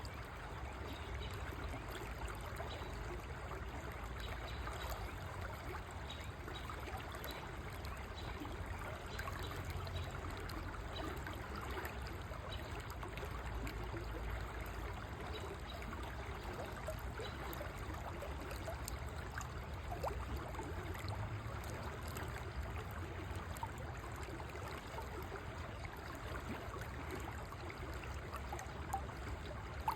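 River water flowing steadily over stones, a continuous rushing and trickling with a low rumble underneath.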